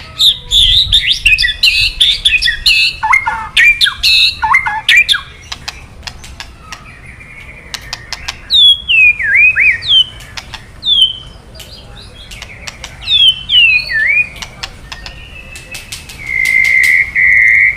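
White-rumped shama (murai batu) singing in bursts of quick whistled notes and swooping glides, broken by many sharp clicking crackles. This is the harsh 'kretekan' call, a sign of an agitated, aggressive male. A long steady whistle begins near the end.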